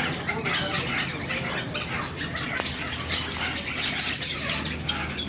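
Many small birds chirping and chattering together in dense, overlapping calls, over a low steady hum.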